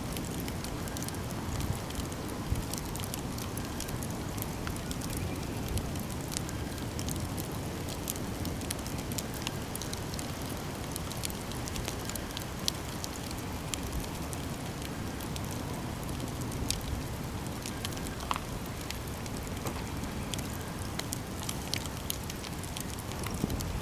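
Campfire burning: a steady low rush from the flames with frequent sharp crackles and pops from the burning wood.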